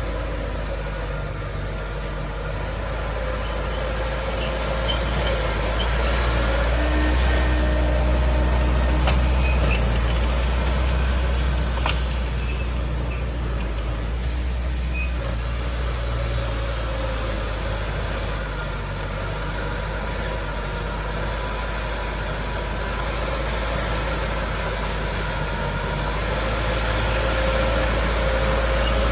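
Heavy diesel engine of earthmoving machinery running continuously, its drone growing louder a few seconds in, easing back, then rising again near the end, with a couple of faint clicks.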